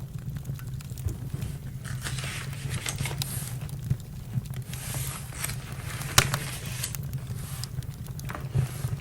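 Campfire crackling, with scattered sharp pops and stretches of soft hiss over a steady low rumble; the loudest pop comes about six seconds in.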